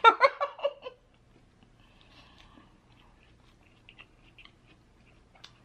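A person biting into and chewing a soft taco close to the microphone, with faint wet mouth clicks.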